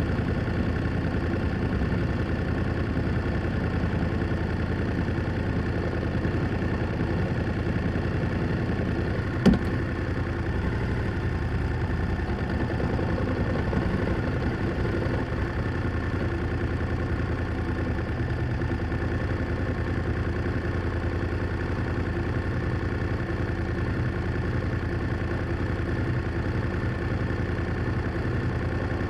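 BMW F800GS motorcycle's parallel-twin engine and exhaust running steadily at an even engine speed, with no revving. About nine and a half seconds in there is a single sharp click.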